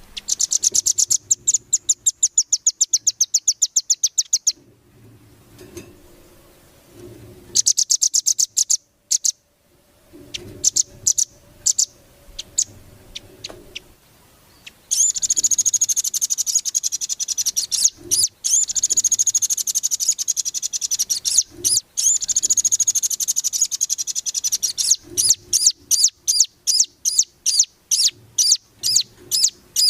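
Songbird song from a bird-tutoring (masteran) recording: high, fast trills of rapidly repeated notes, a long unbroken warbling run in the middle, and a string of separate sharp chips near the end.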